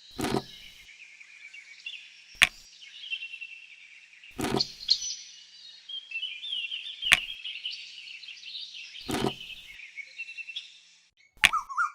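Birds chirping and trilling continuously, with sharp knocks about every two seconds, five in all. Just before the end, a louder warbling call starts and rises in pitch.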